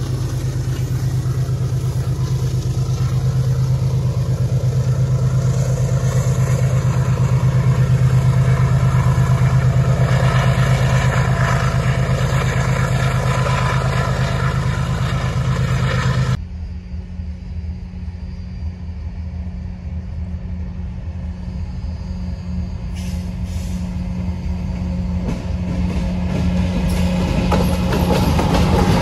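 Diesel freight locomotives running, with a steady low engine drone over the rumble of the wagons. The sound changes abruptly about 16 s in to a second freight train, which grows steadily louder as it approaches.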